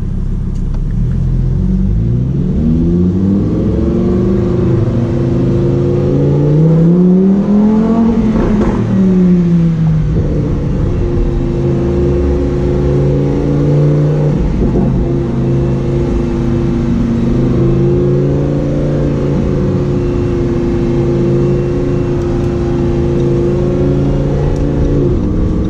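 Lamborghini Huracán Performante's V10 engine, loud, climbing in revs over about six seconds, dropping back, then running at a steady speed.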